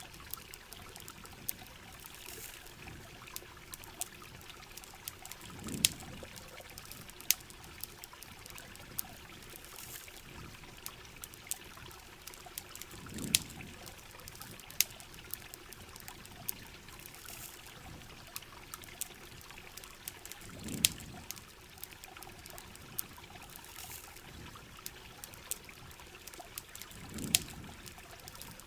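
Steady rain and trickling water, with sharp scattered pops of a crackling campfire and a soft low swell about every seven seconds.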